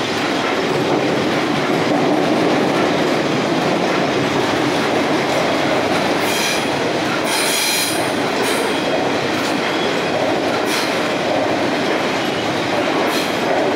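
Train passing on the steel bridge overhead: a steady, loud rumble of wheels on rail. Two brief high-pitched wheel squeals come about six and a half and seven and a half seconds in, and a few shorter squeaks follow later.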